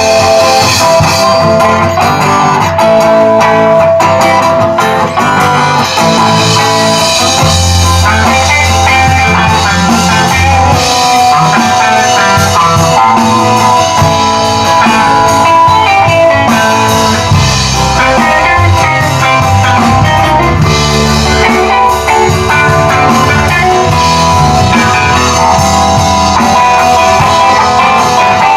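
Live rock/blues band playing an instrumental passage, guitar to the fore over a drum kit.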